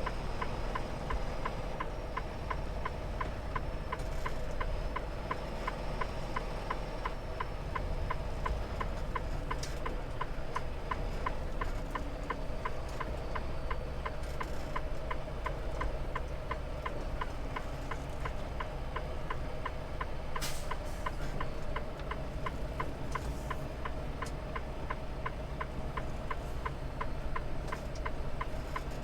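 Semi truck's diesel engine idling with a low, steady rumble, and a fast, even ticking of about three ticks a second over it.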